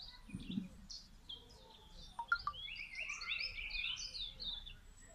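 Birds chirping and singing in short repeated high chirps, with a fast trill a little past halfway.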